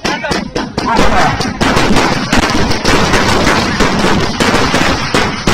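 Fireworks going off in a rapid, continuous string of sharp cracks and bangs, many a second, like machine-gun fire.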